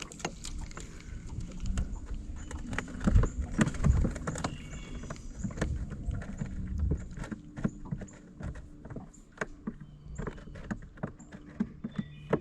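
Irregular knocks and clicks of handling around a small fishing boat, with wind rumbling on the microphone in gusts, strongest about three to four seconds in.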